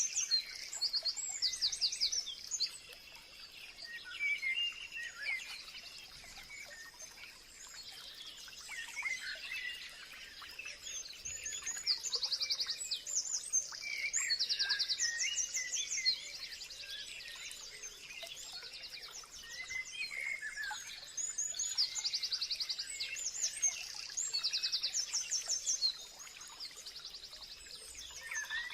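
Several songbirds singing and calling: phrases of very fast, high trilled notes recurring every few seconds, mixed with shorter, lower chirps, over a faint steady hiss.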